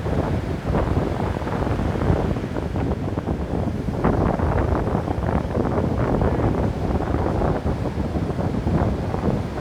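Ocean surf: waves crashing and washing on a beach in an unbroken wash, heavy in the low end with little hiss above, swelling slightly about four seconds in.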